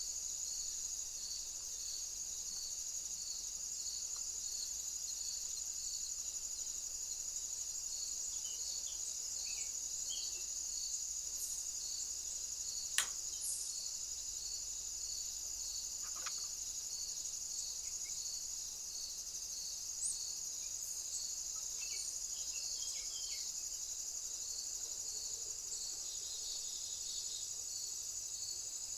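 Insects shrilling in a steady high chorus, with a regular pulsing call beneath it repeating a little under twice a second. A few faint short bird chirps come and go, and there is one sharp click about halfway through.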